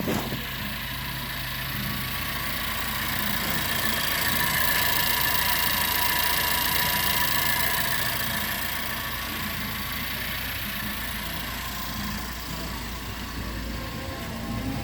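2015 LDV G10's 2.0-litre turbocharged engine running at idle. It grows somewhat louder about a quarter of the way in and settles back after the middle. It is an engine tested good, running steadily.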